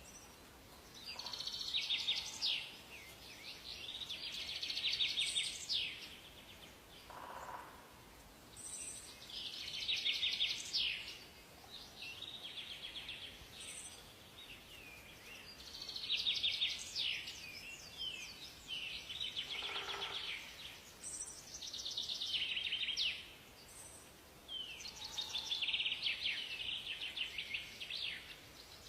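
Songbird singing long, high-pitched phrases of rapid twittering notes, each lasting two or three seconds, repeated every five or six seconds with a few shorter calls between, over faint forest hiss.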